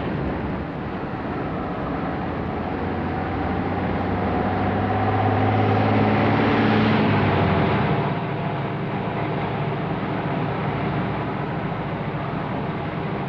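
Truck engine running under a steady rushing noise. It swells louder for a few seconds, then drops back sharply about eight seconds in.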